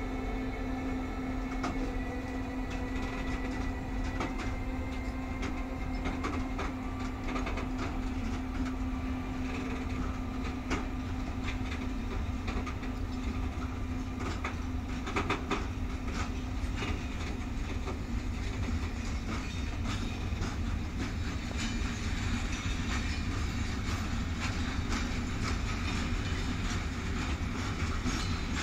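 Freight train rolling past: a steady low rumble of wagons with repeated clicks of the wheels over rail joints. A steady hum runs through the first half and fades out about halfway.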